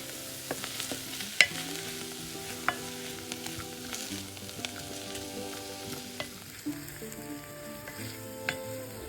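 Food sizzling in a pan while being stirred, with sharp clicks of a utensil against the pan, the loudest about a second and a half in. Soft background music plays underneath.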